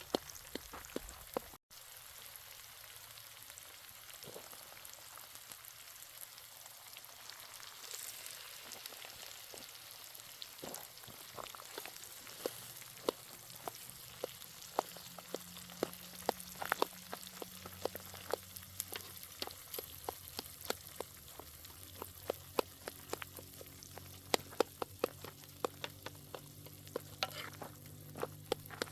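Food sizzling as it fries in a pan, with many sharp clicks and taps throughout that grow more frequent in the second half. A brief dropout about two seconds in.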